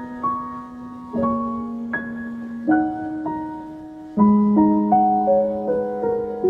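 Slow, gentle background music on piano: soft notes and held chords, with a new chord every second or so and a louder chord about four seconds in.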